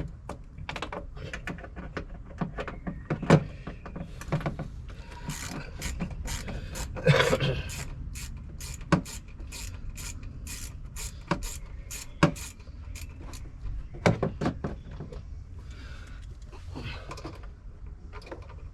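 A hand ratchet wrench clicking in runs as Torx bolts are worked loose, with scattered knocks and clunks of tools and plastic trim in between.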